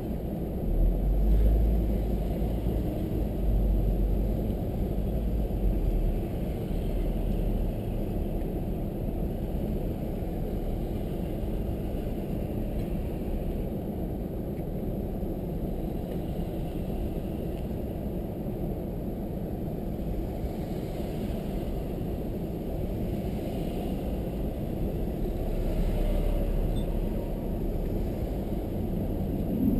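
Car driving, heard from inside the cabin: a steady rumble of road and engine noise, with heavier low rumbling in the first few seconds and again near the end.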